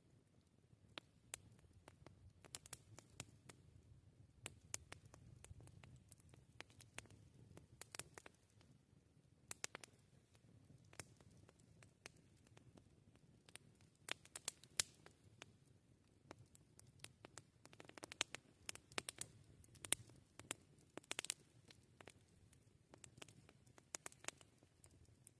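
Wood fire crackling: irregular sharp snaps and pops, in clusters, over a low steady rumble of the burning.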